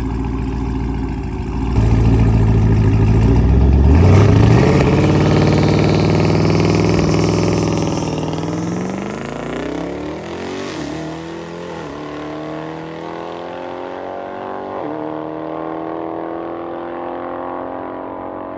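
Boosted Hemi V8 drag car launching hard down the strip. A loud low rumble builds, then the engine note climbs through the gears, dipping in pitch at each shift, and fades as the car pulls away.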